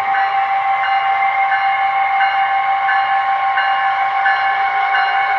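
Onboard sound of an HO scale Bachmann Charger model locomotive playing through its small speaker: a steady diesel hum with a faint repeating tick about every 0.7 seconds.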